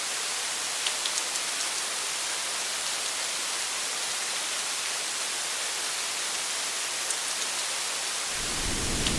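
Steady rain hiss with a few sharp drop ticks. A low rumble of thunder comes in near the end.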